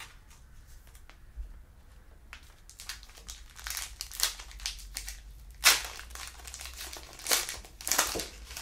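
Foil trading-card pack wrapper crinkling as it is handled and torn open, a run of irregular crackles starting a couple of seconds in, the loudest near the end.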